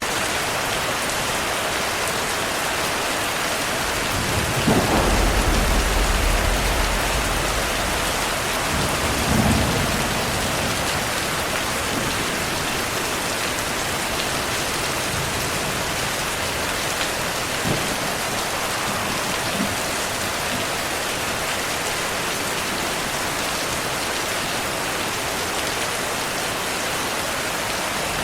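Steady heavy rain, with a low rumble of distant thunder starting about four seconds in and fading out over the next few seconds, and a shorter rumble a little later.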